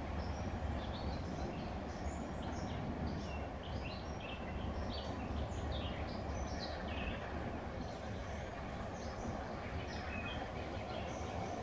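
Small birds chirping and twittering in woodland, many short high calls over a steady low rumble.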